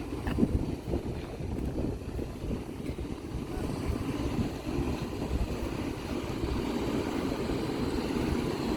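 Steady low rumbling noise of a vehicle in motion, with a few small knocks near the start.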